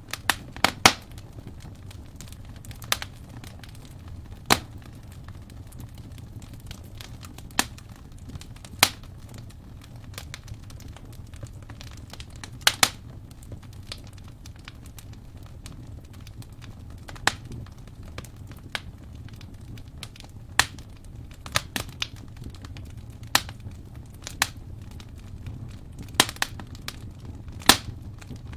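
Wood fire in a fireplace crackling: irregular sharp pops and snaps, one every second or two, over a low steady rumble of the burning.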